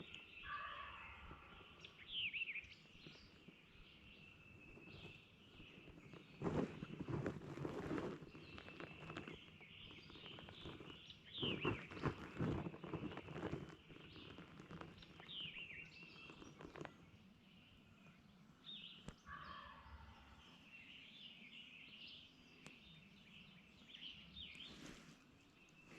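Songbirds chirping and singing, with two louder rattling bursts of about two seconds each, about seven and twelve seconds in.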